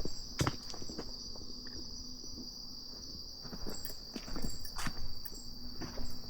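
Insects chirring in a steady, high, unbroken drone, with a few of the walker's footsteps on the path, one about half a second in and one near 5 seconds.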